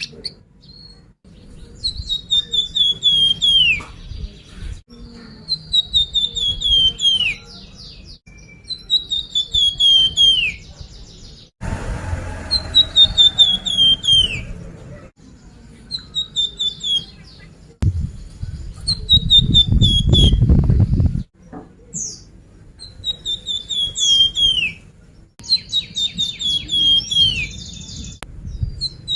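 Song of the bird kept in Indonesia as the "flamboyan", played as a lure (pancingan) recording: a falling run of quick, sharp chirps about two seconds long, repeated every three seconds or so. A low rumble sits under two of the phrases about halfway through.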